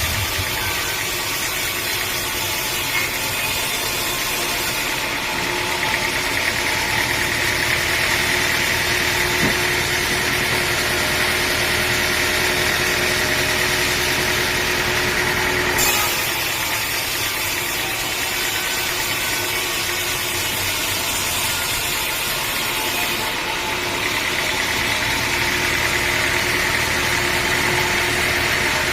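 Sawmill engine running steadily, with a higher whine rising over it at times as the saw works.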